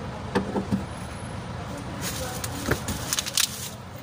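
Hand tools clicking and clinking against metal on a truck's cab fittings, several sharp knocks with a cluster near the end, over a steady low hum.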